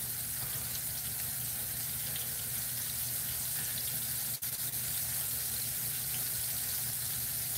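Flour-dredged steaks frying in hot shortening in a cast iron skillet, giving a steady sizzle.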